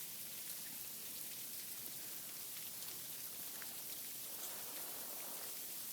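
Sleet falling: a steady fine hiss with a few faint scattered ticks.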